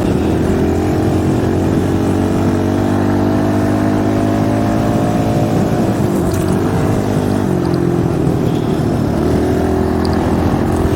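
Dirt bike engine running under way, its pitch climbing slowly over the first few seconds, dropping about six seconds in and rising again near the end as the throttle and gears change.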